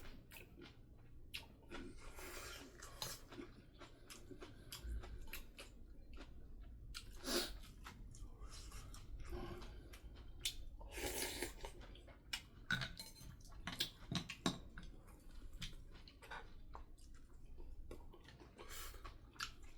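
Close-up chewing and eating sounds of a person eating spicy yellow croaker stew, with many short clicks and a few longer noisy bursts scattered throughout.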